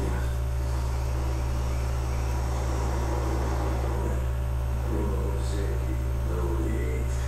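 Steady low electrical hum, with faint indistinct voices about two-thirds of the way in.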